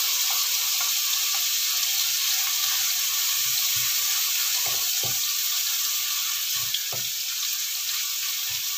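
Bitter gourd, dried shrimp and anchovies sizzling in hot oil in a wok: a steady frying hiss. A wooden spatula stirring them knocks against the pan a few times, around five seconds in and again near seven.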